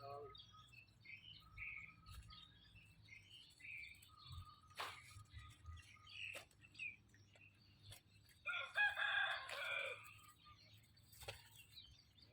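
A rooster crows once, loudly, about two thirds of the way in, over steady high chirping of small birds.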